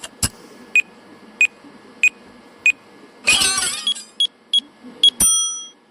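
A run of short electronic beeps, about one every 0.6 s, broken by a brief warbling squeak a little past halfway. Three quicker, higher beeps follow, then one longer beep near the end.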